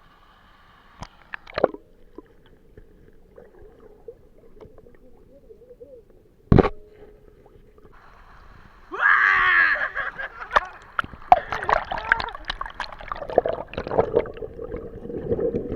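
Water splashing and sloshing, loud and irregular from about nine seconds in. A single sharp knock comes a little past six seconds.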